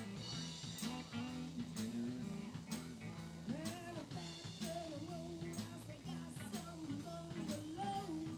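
Live band playing: a drum kit keeps a steady beat with rimshots over bass and guitar. About halfway through, a lead melody comes in that bends up and down in pitch.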